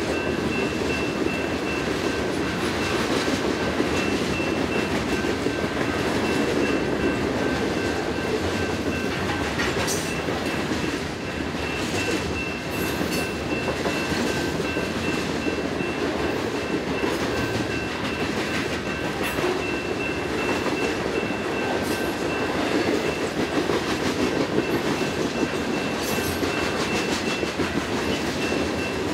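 Norfolk Southern freight train's hopper cars rolling steadily past close by, wheels rumbling and clattering over the rail joints. The grade-crossing bell keeps up a repeating high ding over the train noise.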